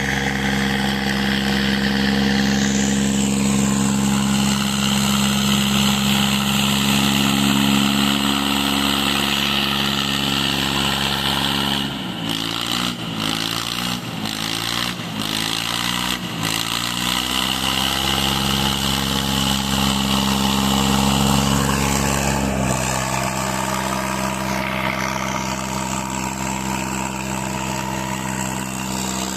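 Tractor diesel engines running at high, steady revs. About twelve seconds in the engine note wavers up and down for a few seconds, with brief dips, then settles, and it changes again about twenty-two seconds in.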